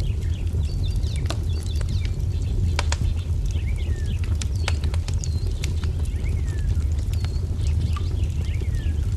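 Wood fire crackling, with scattered sharp pops over a steady low rumble, while small songbirds chirp repeatedly in short falling and dipping notes.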